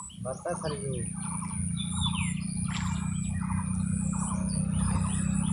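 Birds chirping in short calls repeated every second or so, one call falling in pitch, over a steady high-pitched drone and a low hum.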